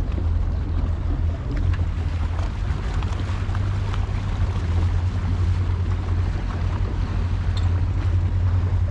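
A tour boat's engine drones steadily underway, with wind and water noise on the microphone.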